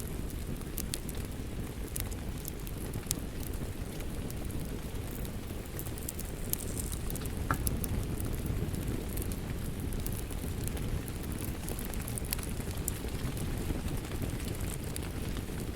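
Crackling wood fire over a steady rain ambiance: a low, even rumble of rain with scattered sharp pops and crackles throughout.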